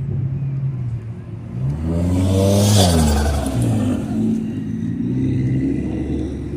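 A car engine revs up as the car accelerates past, its pitch climbing to a loud peak a little before halfway and then falling away, with other engines running steadily.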